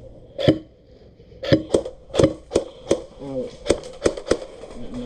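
Airsoft guns firing single shots: about nine sharp cracks at uneven intervals, roughly every half second.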